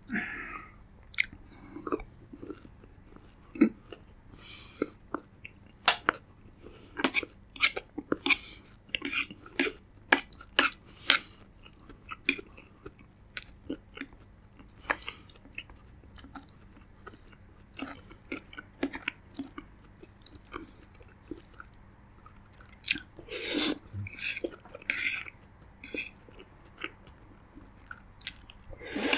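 Close-miked mouth sounds of a person chewing food, a steady run of wet clicks and smacks with some crunch. A louder, longer burst about three-quarters of the way through.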